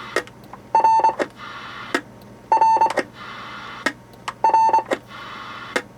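Roger beep box sounding a short, buzzy single-pitch beep three times, about two seconds apart, as the CB microphone's push-to-talk key is keyed and released. There is a click from the key before and after each beep.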